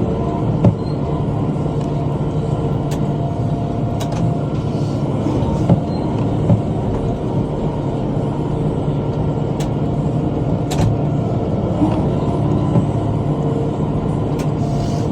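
Kubota M5 tractor's diesel engine running steadily, with a few sharp knocks scattered through.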